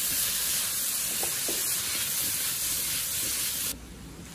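Spring bamboo shoot pieces sizzling in oil and soy sauce in a frying pan over low heat, a steady hiss that cuts off suddenly near the end.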